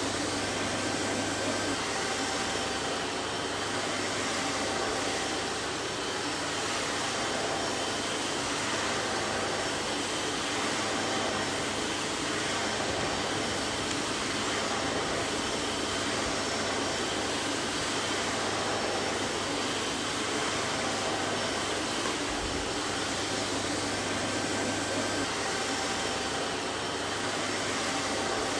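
Vacuum cleaner running steadily: an even rushing whoosh of air over a low motor hum, with faint steady whining tones.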